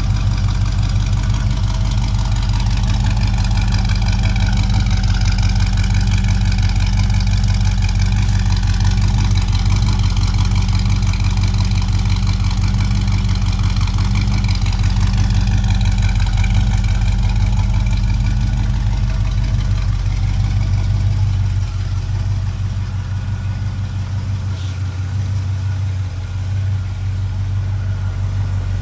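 1957 Chevrolet 150's small-block V8 idling steadily, easing slightly in level about three-quarters of the way through.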